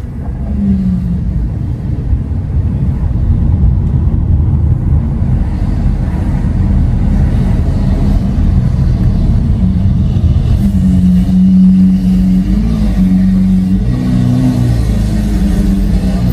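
Lamborghini Aventador SV's V12 engine with a Capristo aftermarket exhaust, running with a deep, loud rumble. From about ten seconds in, a steady engine note holds for a couple of seconds, then its pitch shifts a couple of times near the end.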